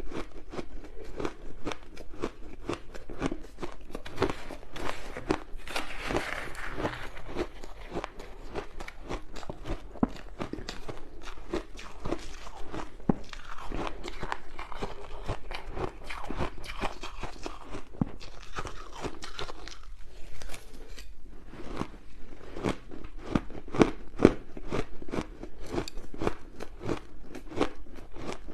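Close-miked crunching of ice being bitten and chewed, a rapid run of sharp crunches, several a second and without a break.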